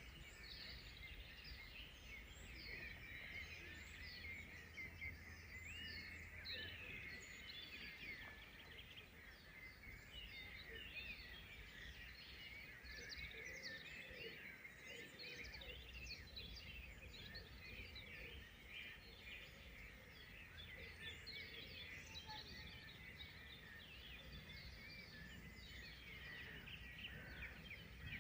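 Faint chorus of many songbirds singing at once, dense overlapping short chirps and trills with no pause, over a low background rumble.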